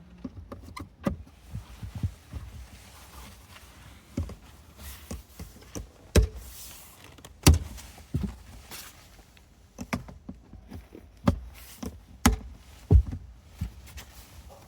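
Irregular clicks and knocks of a hard-plastic 3D-printed umbrella holder and umbrellas being handled and snapped into place, about a dozen sharp ones scattered through.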